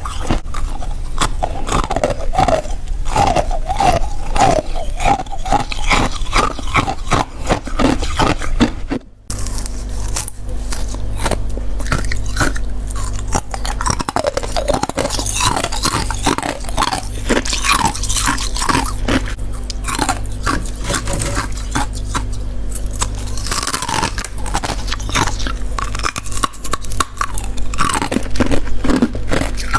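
Freezer frost being bitten and chewed close to the microphone: dense, crisp crunching throughout. After a short break about nine seconds in, a low steady hum sits under the crunches.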